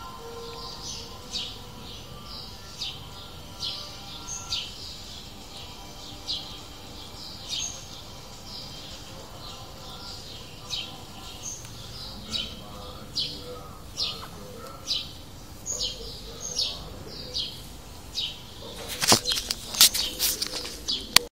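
A small bird chirps in short, high calls, about once or twice a second. A burst of sharp clicks comes near the end.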